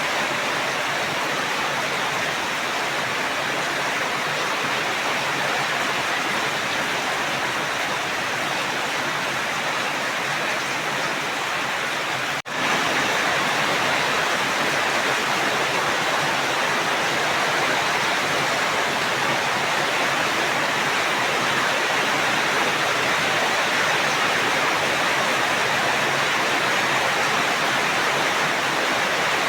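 Steady heavy rain, an even hiss with no single drops standing out. About twelve seconds in it cuts out for an instant and comes back slightly louder.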